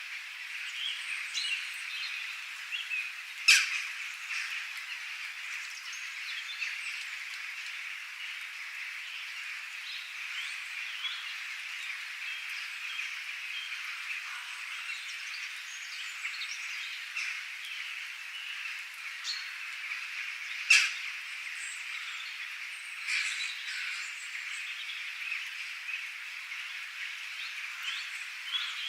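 Dense, steady outdoor chorus of calling frogs mixed with small bird chirps. Two short, much louder sharp calls stand out, a few seconds in and again about two-thirds of the way through.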